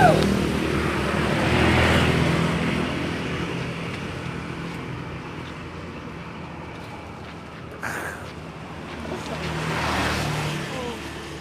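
Passing road traffic: motor vehicle engine noise that swells and fades, loudest about two seconds in and again near the end, with a brief click about eight seconds in.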